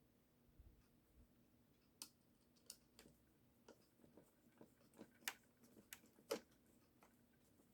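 Faint, irregular clicks and taps of small plastic parts and a screw being handled while a dancing toy's arm mechanism is fitted back together.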